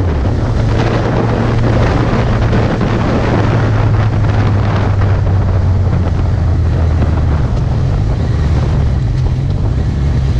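Heavy wind noise buffeting the microphone over a Suzuki GSX650F's inline-four engine running steadily at cruise.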